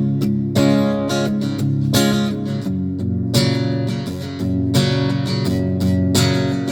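Live acoustic band music in an instrumental stretch: rhythmically strummed chords with a steady beat and no singing.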